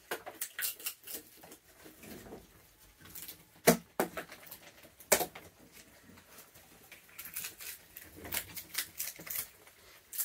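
Raccoons feeding on peanuts and treats: a scatter of light clicks, taps and crunches, with two sharper knocks about four and five seconds in.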